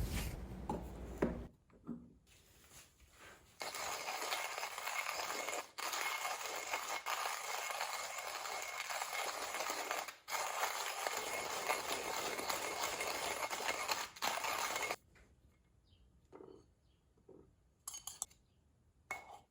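Manual conical burr coffee grinder being hand-cranked, crunching coffee beans with a steady crackly grinding noise. The grinding starts a few seconds in, breaks off briefly twice, and stops about three-quarters of the way through; a few faint clicks follow.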